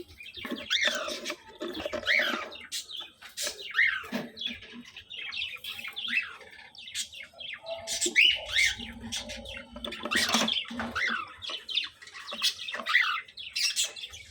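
Several cockatiels chirping and calling over and over, short arched calls that overlap one another.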